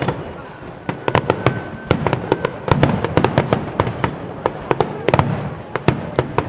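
Fireworks display: a dense barrage of aerial shell bursts, dozens of sharp bangs and crackles overlapping over a low rumble. The bangs thin out briefly about half a second in, then come thick and fast again.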